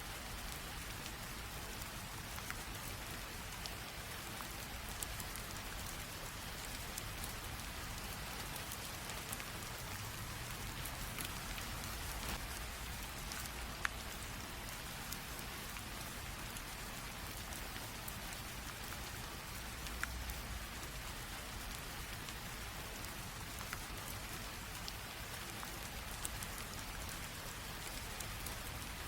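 Light rain drizzle falling steadily, a soft even hiss with scattered individual drops ticking on a surface.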